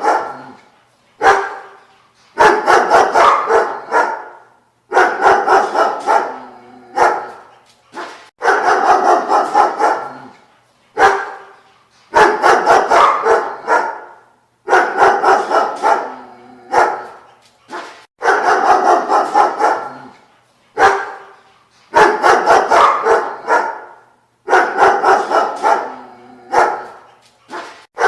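Dog barking in fast runs of several barks, each run about two seconds long, repeating at a steady pace with single short barks in the gaps.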